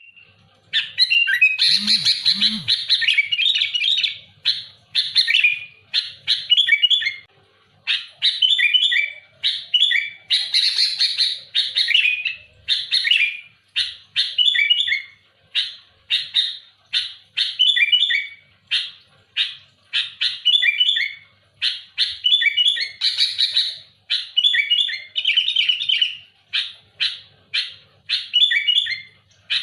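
Sooty-headed bulbul (kutilang) singing loudly and nonstop: short, quick phrases repeated about once a second, broken by a few longer, denser outbursts.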